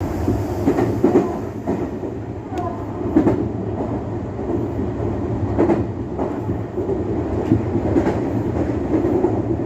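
Meitetsu Hiromi Line train running along the track, heard from on board: a steady rumble of wheels on rail with irregular sharp clacks from rail joints.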